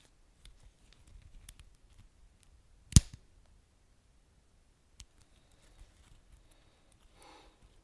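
Wood fire crackling: scattered small ticks and snaps, with one sharp loud pop about three seconds in and a brief soft hiss near the end.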